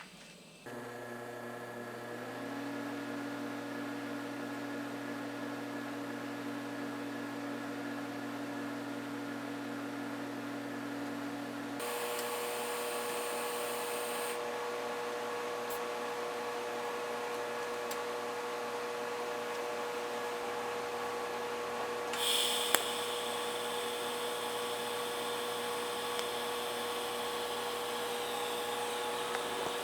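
Electric grinder spinning up about a second in and running steadily, cleaning steel plate and tubing down to bare metal before welding; its sound changes about twelve seconds in, with a short hiss and a click around twenty-two seconds.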